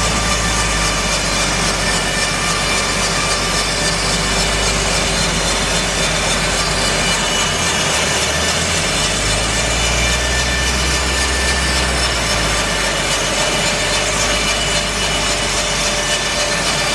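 Bandsaw mill sawing a larch log: a steady, loud blend of engine and blade noise, its low engine note shifting for a few seconds midway.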